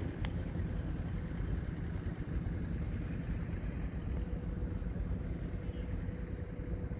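Strong wind buffeting the camera microphone: a steady, fluttering low rumble, with a faint steady hum underneath.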